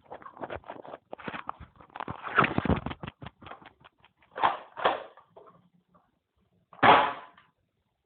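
Clicks and rattles from handling a Brava airsoft shotgun, with three louder bursts, two close together about halfway and one near the end.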